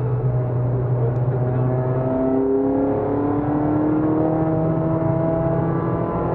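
Peugeot 206 RC's 2.0-litre four-cylinder engine heard from inside the cabin, pulling hard under acceleration with its pitch rising steadily.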